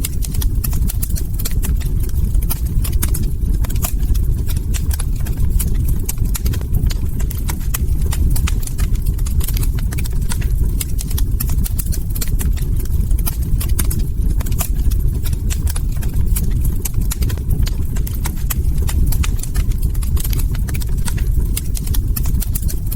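Log fire crackling: dense, irregular pops and snaps over a steady low rumble.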